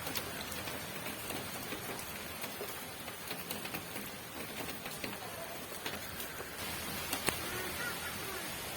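Steady rain falling, an even hiss with scattered individual drops striking close by; one sharper drop hit about seven seconds in.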